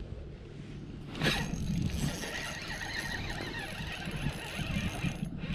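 A fishing reel clicking and ratcheting steadily while a hooked fish is fought. It starts with a sudden sharp sound about a second in and stops briefly near the end.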